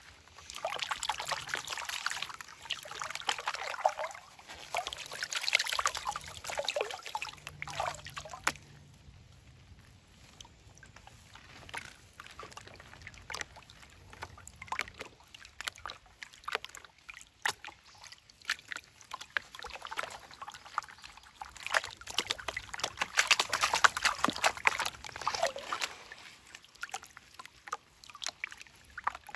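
Creek water sloshing and pouring as a sluice's concentrates are washed out in slack water during cleanup. It comes in two busy spells, the first through about eight seconds and the second a little past the twenty-second mark, with quieter trickling between.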